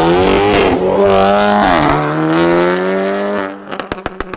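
Car engine accelerating hard through the gears, its pitch climbing and dropping twice at upshifts. Near the end it lets off and a quick run of sharp pops follows.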